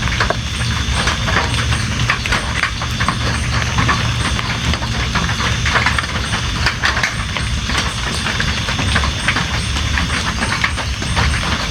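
Steady heavy rain, dense individual drops striking close by, over a constant low rumble.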